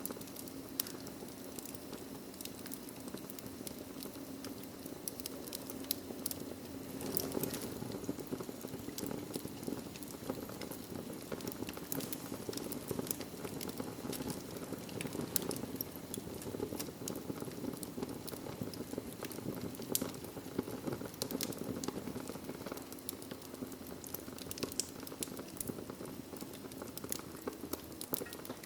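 Wood fire burning in a fireplace: steady crackling with irregular sharp pops and snaps over a low, even rush of flame.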